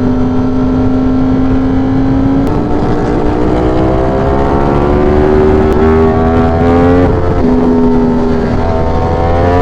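Ducati Streetfighter V4 engine running at road speed with wind rumble: steady at first, then from about two and a half seconds in its pitch climbs steadily as the bike accelerates, drops back at about seven seconds and holds steady again.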